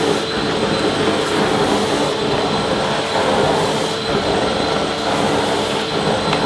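Vacuum cleaner running steadily: an unbroken rush of air with a constant motor whine.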